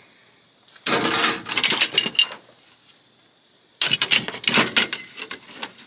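Clattering and rattling of small metal parts from a gutted oscilloscope being handled. It comes in two bursts, one about a second in and another from a little before four seconds in.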